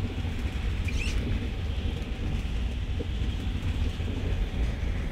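Steady low rumble and hiss inside the passenger car of a high-speed train.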